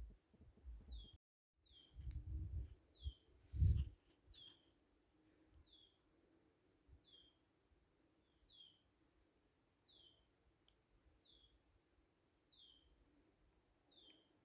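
A small bird calling over and over in a steady rhythm: each call is a short high note followed by a falling one, about one call every three quarters of a second. Low rumbles sound in the first four seconds, the loudest near four seconds in, and the sound cuts out completely for a moment about a second in.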